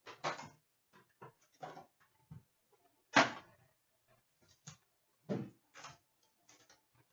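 Hands opening and handling a box of trading cards and its packaging: scattered short rustles, scrapes and clicks, the loudest about three seconds in and another a couple of seconds later.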